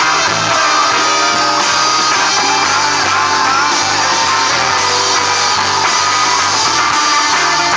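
Live rock band playing an instrumental passage with electric guitar over bass and drums.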